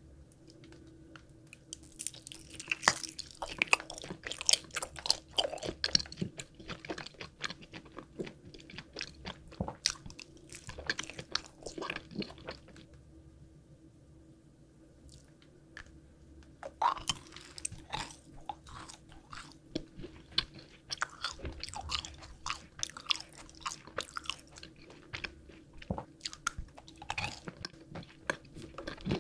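Close-miked ASMR chewing and biting of candy: a run of wet, clicky bites and chews of a gummy eyeball, a pause of a few seconds, then more crunching chews of a macaron.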